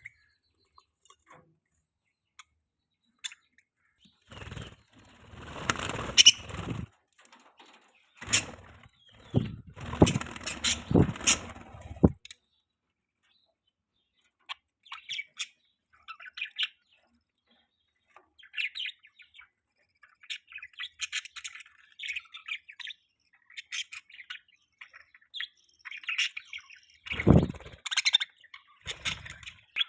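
Pet budgerigar chirping and chattering in many short, quick calls. In the first half there are a few loud bursts of noise that reach down into the bass, and another comes near the end.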